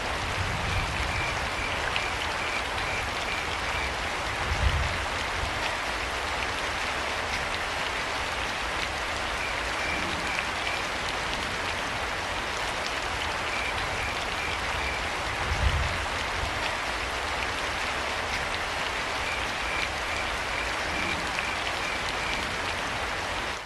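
Steady rain falling, with crickets chirping in short rapid trains on and off over it. Two brief low thumps stand out, and the sound fades out at the very end.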